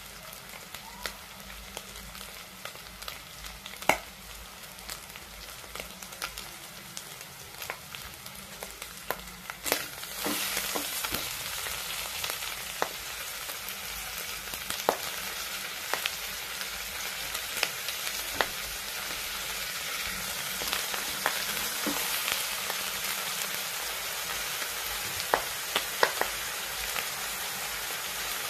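Food sizzling in hot oil in a stainless steel pot. The sizzle grows louder about ten seconds in, and sharp clicks and knocks come as eggplant pieces are dropped into the pot.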